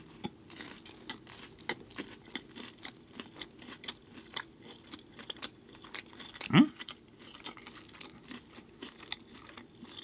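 Close-miked chewing of a pizza-flavoured burrito: many small, sharp crunching and wet mouth clicks. A short vocal sound rises briefly about two-thirds of the way through.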